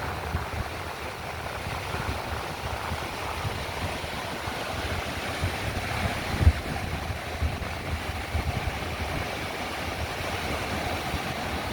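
Strong wind buffeting the microphone in irregular low rumbling gusts, the strongest about six and a half seconds in, over a steady wash of ocean surf.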